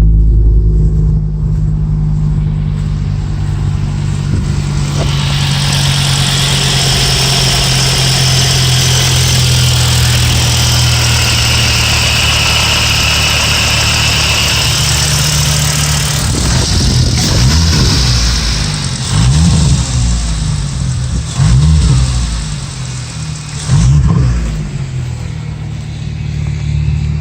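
VW Jetta 2.5L five-cylinder engine on its cold-start idle, running steadily through an aftermarket exhaust with a Magnaflow muffler. About two-thirds of the way through, it is blipped several times in quick succession, each rev rising and falling back to idle.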